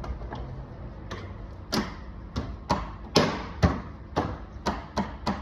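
Steel replacement sill panel knocking against a car's body as it is offered up and tried on: a run of about a dozen sharp knocks, irregular and loudest in the middle.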